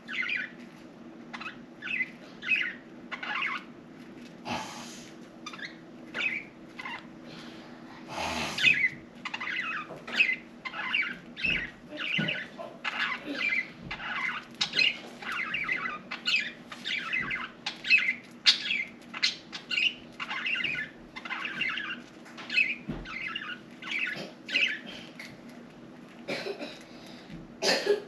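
Budgerigars chirping and chattering in quick, short chirps, getting busier about a third of the way in.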